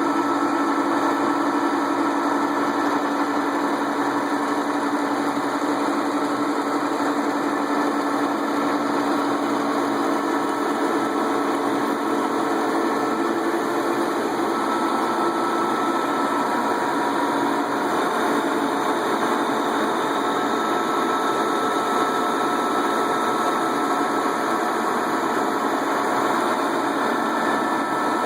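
Lathe running steadily while turning a part: a constant machine hum with a thin steady tone that grows clearer about halfway through.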